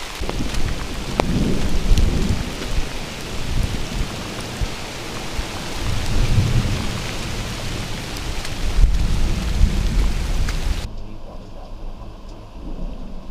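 Heavy rain hissing steadily in a downpour, with low rumbles swelling three times. The rain hiss cuts out suddenly near the end, leaving a quieter low rumble.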